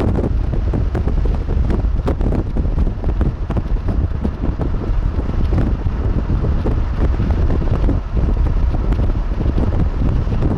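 Strong wind buffeting the microphone: a loud, gusty rumble that rises and falls unevenly.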